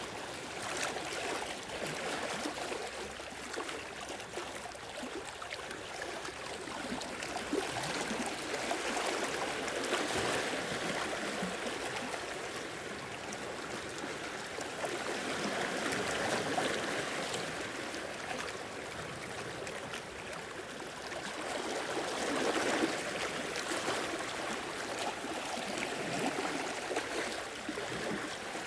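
Small sea waves washing in and draining back over a beach, the sound swelling and ebbing every several seconds, with trickling and gurgling water.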